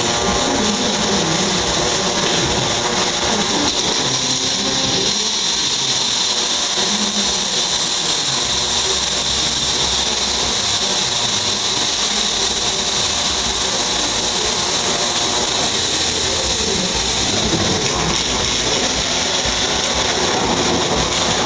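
Panasonic robot welder's pulsed MIG/MAG arc burning steadily: a continuous hissing buzz that does not let up.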